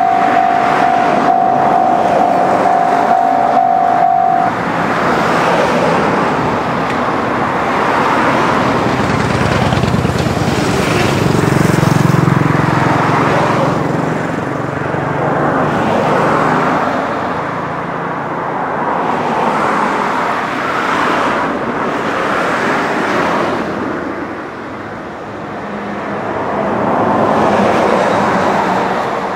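A train rolling past, likely a freight train behind an electric locomotive, with a long, loud rumble of wheels on rail that swells and ebbs and fades near the end. A steady tone sounds over it for the first four seconds or so.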